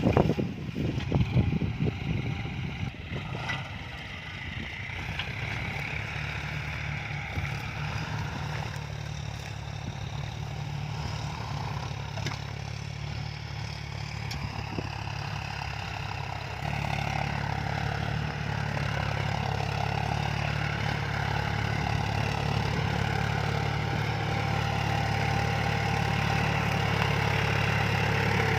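John Deere farm tractor's diesel engine running steadily under load while pulling a six-disc plough. A rougher, louder noise fills the first couple of seconds. About halfway through the engine grows louder and keeps rising slowly.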